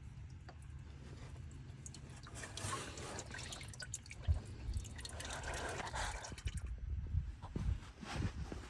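Motor oil pouring in a stream for about four seconds, starting a couple of seconds in, with drips and small knocks around it.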